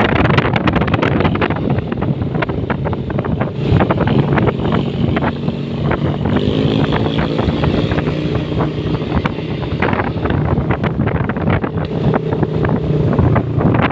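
Motorcycle engine running while riding, with wind buffeting the microphone; about six seconds in, the engine revs climb steadily as the bike accelerates.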